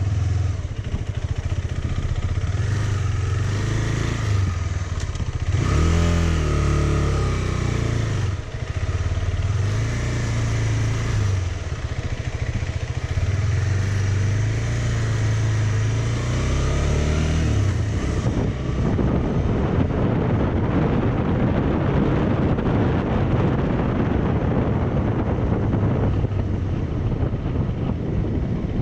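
Motorcycle engine running on the move, its note rising and falling with the throttle and gear changes. About two-thirds of the way through, the engine note sinks under a rougher rushing noise.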